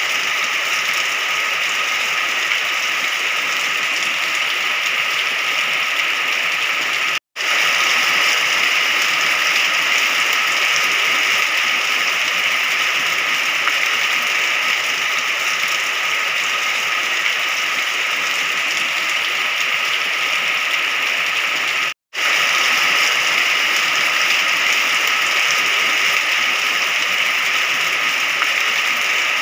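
Steady rain falling, an even hiss with no thunder. It cuts out for an instant twice, about a quarter of the way in and again about three-quarters through.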